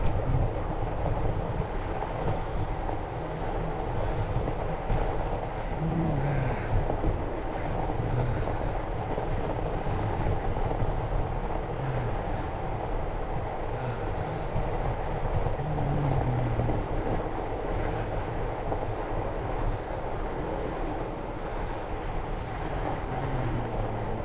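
Fat-tyre bike rolling over a snowy trail: a steady rumble of the wide tyres and the bike, picked up by a GoPro riding along.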